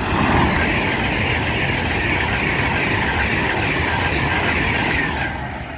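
Class 390 Pendolino electric train passing through the station at speed: a loud, steady rush of wheels on rail and air that eases off about five seconds in as the train goes by.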